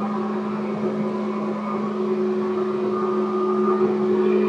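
Seibu 10000 series electric train running, heard from on board: a steady rumble with constant humming tones, growing a little louder toward the end.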